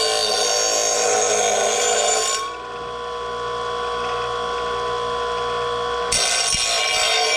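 Electric grinder sharpening a steel mower blade: a steady motor whine with the harsh rasp of the wheel on metal. The rasp drops away about two and a half seconds in as the grinder spins free, then comes back about six seconds in.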